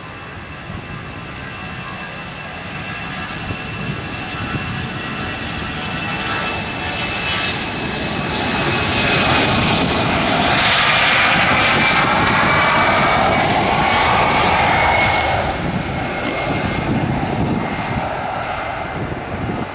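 Airbus A319 jet engines at take-off power, a steady high whine over dense engine noise. It grows to its loudest about halfway through with a sweeping, phasing sound as the aircraft passes, then fades away.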